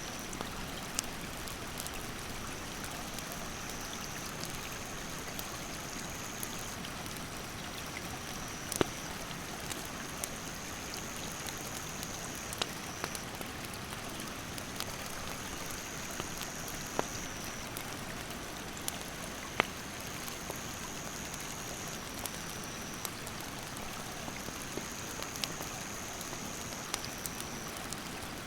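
Mountain stream rushing steadily, with sharp crackles and pops from a wood campfire, the loudest about nine and twenty seconds in. A high insect drone runs over it in stretches of a few seconds, shifting slightly in pitch between them.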